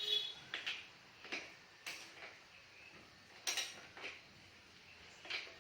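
Light metallic clinks and taps of hand tools against metal parts, about seven in an irregular string, the first with a short ringing tone.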